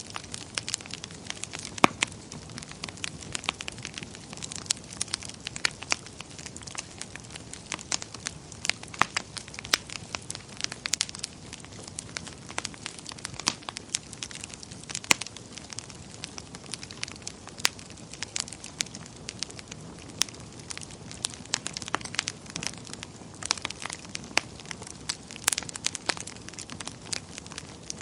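Wood fire burning in a fireplace: a steady soft hiss with frequent irregular crackles and pops, the loudest pop about two seconds in.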